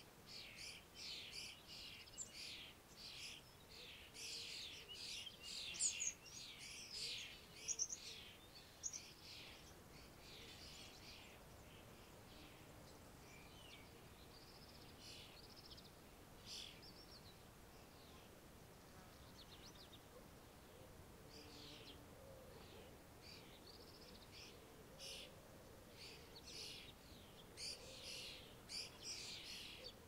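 Songbirds chirping and twittering in quick, high calls. The calls are busiest in the first ten seconds and again near the end, sparser in between. Faint low calls come in during the second half.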